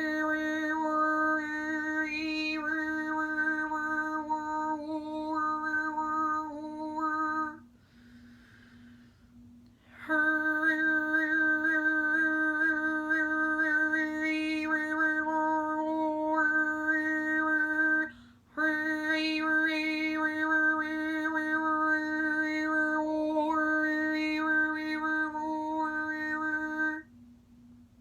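A woman's voice doing overtone (polyphonic) singing: one long-held low note with whistling overtones above it that shift from pitch to pitch like a melody. It comes in three long phrases, with a breath in between after about eight seconds and a quick one about eighteen seconds in.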